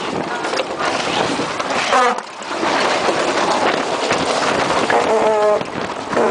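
Wind buffeting the microphone and water rushing along the hull of a maxi sailing yacht under way, with crew voices calling out briefly about two seconds in and again about five seconds in.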